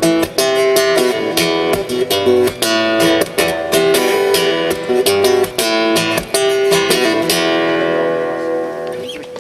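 Acoustic guitar strumming the closing chords of a song in an instrumental outro. The strumming stops about seven seconds in and the last chord rings out and fades.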